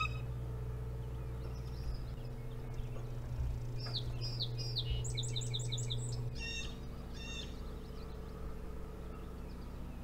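Wild birds calling: a few short descending notes about four seconds in, a quick run of about six repeated notes, then two harsh calls, over a steady low hum that drops about six seconds in.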